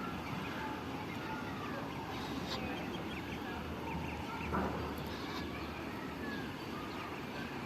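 Birds calling: many short, high chirps and peeps over a steady background hum, with one brief knock about four and a half seconds in.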